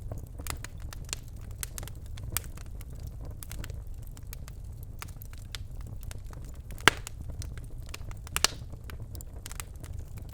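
Birchwood fire in a fireplace crackling, with scattered sharp pops over a low steady rumble of the flames; two pops stand out, about seven and eight and a half seconds in.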